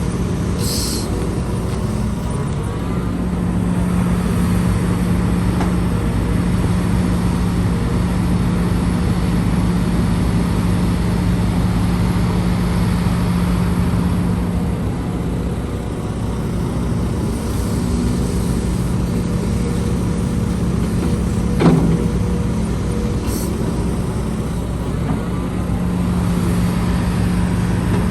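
Heavy diesel engines of an excavator and dump trucks running steadily, with two short hisses, one near the start and one about 23 seconds in, and a single sharp clank about 22 seconds in.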